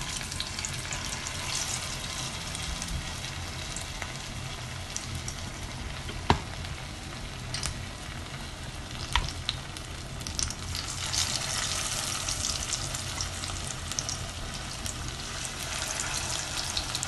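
Potato and onion pakoras in gram-flour batter sizzling as they deep-fry in hot oil in a frying pan, with a few sharp clicks. The sizzle gets louder about eleven seconds in as more batter goes into the oil.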